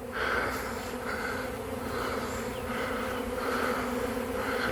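A honey bee swarm in flight: a steady, dense buzz of thousands of bees around the microphone as they start landing to cluster around their queen.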